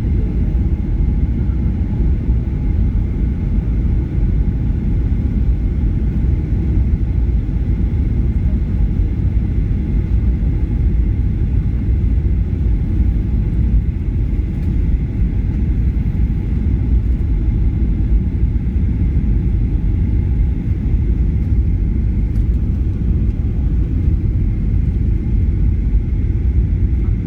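Steady engine and airflow rumble inside a jet airliner's cabin in flight: a deep, even roar with a faint steady high tone above it.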